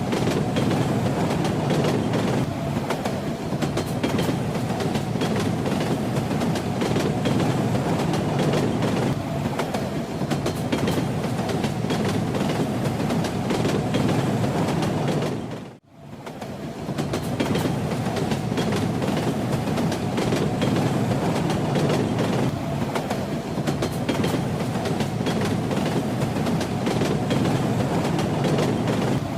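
Train wheels knocking over the rail joints with a steady rumble from a moving train. About halfway through, the sound fades out to near silence for a moment and quickly swells back in.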